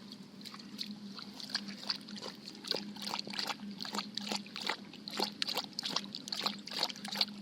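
Water trickling and dripping, a run of irregular small drops and splashes over a faint steady hum.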